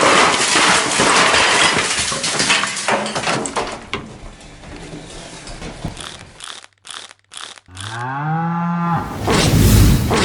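Several seconds of loud crashing noise that fades away. Near the end a bull gives one bellowing moo, followed at once by a heavy low thud.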